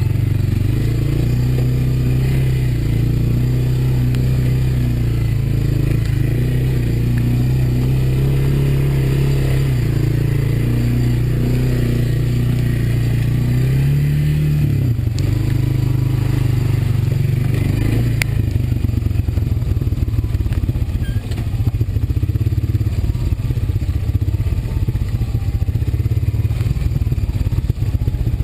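Honda ATV's single-cylinder four-stroke engine running under way. The steady engine note rises briefly about halfway through, then turns lower and rougher for the rest.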